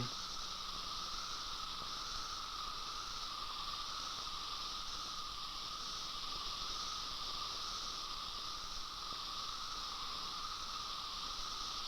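Chorus of periodical cicadas: a shrill, steady song with a slight slow waver that holds without a break.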